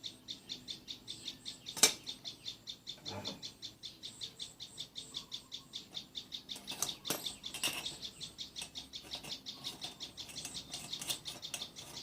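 Rapid, regular high-pitched chirping, about five chirps a second, keeps on without a break. A few sharp knocks break in, the loudest about two seconds in.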